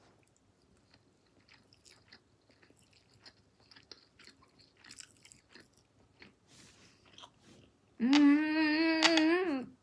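Close-up chewing of crab meat: soft, wet mouth clicks and smacks. About eight seconds in comes a loud, drawn-out closed-lip "mmm" of enjoyment, held on one pitch for nearly two seconds.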